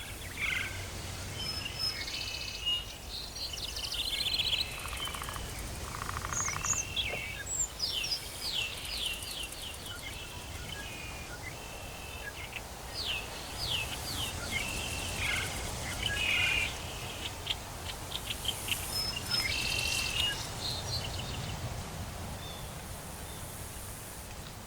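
Tropical forest ambience: several birds calling and trilling at once, with runs of quick downward-sweeping notes, over a steady background hiss.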